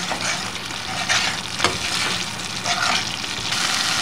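Tomato and onion masala sizzling in oil in a steel pot while a spoon stirs it and scrapes the bottom, with several scrapes about a second apart. The masala is being fried down until the oil separates, and the sizzle grows louder near the end.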